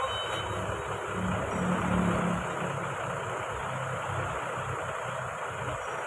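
Truck engine running, a little louder for a moment between about one and two and a half seconds in.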